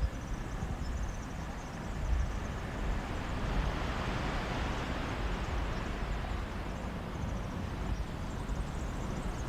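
Sea waves washing on a beach, one swell building and fading over a few seconds in the middle. Wind from the sea breeze rumbles on the microphone throughout.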